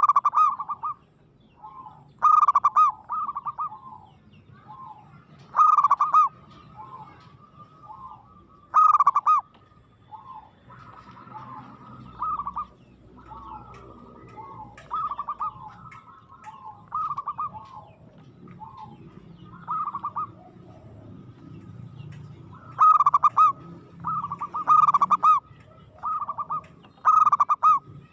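Zebra dove (perkutut) cooing over and over in short, quick rolling phrases, with a loud phrase every few seconds and softer ones between.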